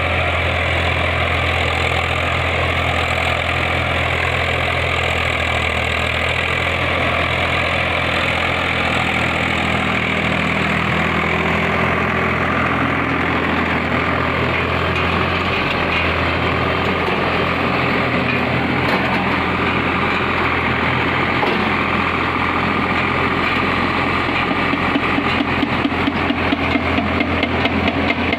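Tractor engine running steadily under load while driving a super seeder sowing peas, with a deep, even hum. Near the end the sound turns rhythmically pulsing.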